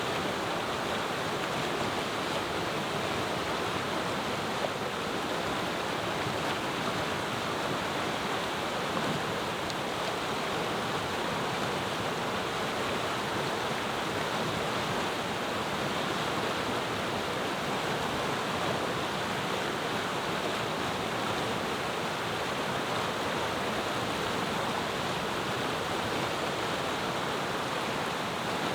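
Clear mountain river flowing, a steady murmur of running water with no change through the stretch.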